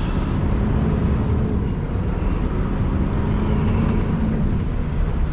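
Scania R620's V8 diesel engine running with a steady low drone as the truck gets under way.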